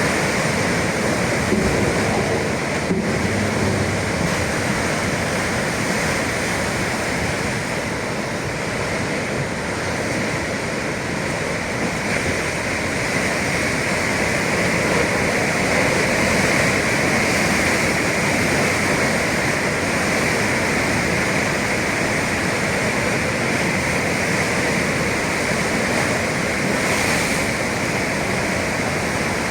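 Sea waves and surf rushing steadily, a continuous wash of water noise with no distinct breaks.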